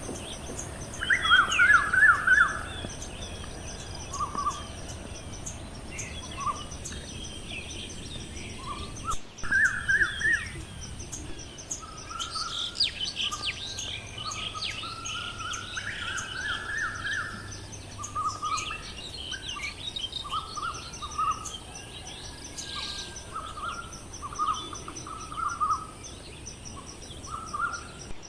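Several birds chirping and calling in short repeated bursts over a steady high-pitched hiss, with the loudest chirps about two seconds in and again near ten and thirteen seconds.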